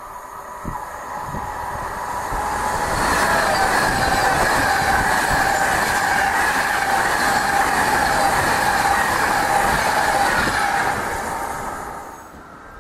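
A train passing at speed: the rumble and rail noise build up, stay loud for about seven seconds with a steady high-pitched ring from the wheels, then die away near the end.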